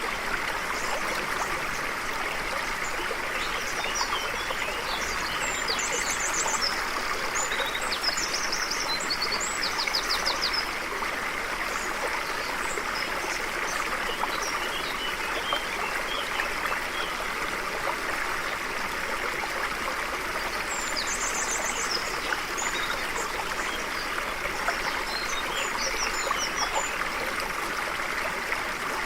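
Stream flowing steadily with a continuous trickling rush. Songbirds chirp above it, with quick high trills, in two spells: one in the first third and one after the middle.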